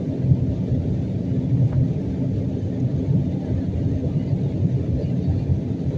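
Jet airliner cabin noise: a steady low rumble of the engines and airflow, heard from inside the passenger cabin.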